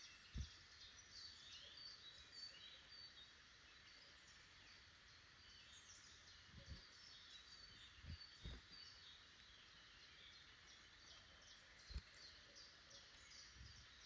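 Small woodland birds chirping and calling faintly in quick high runs, busiest in the first few seconds and again around the middle, with a few soft low thumps scattered through.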